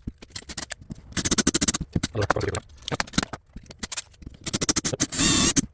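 Sped-up sound of a stuck screw being drilled out with a reverse (left-hand) drill bit: short runs of a small electric drill broken by clicks and scrapes. A louder, longer drill run comes near the end.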